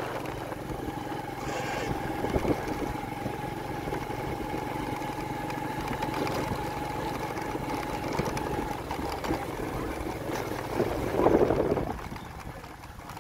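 Honda motorcycle engine running steadily while riding along a dirt track, with a held steady tone through most of it. A short louder burst comes about eleven seconds in, and the engine sound drops lower just after.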